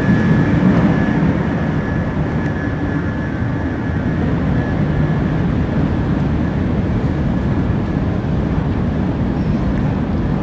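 Steady low rumble and hiss inside a Shinkansen bullet train passenger car under way, with a faint high whine that fades out near the end.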